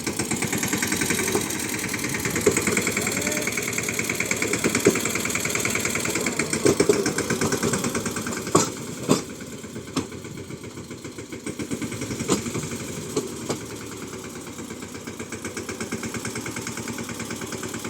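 Swaraj tractor's diesel engine running with a steady, fast chugging beat that dips a little in level midway. A few sharp knocks come a little before halfway.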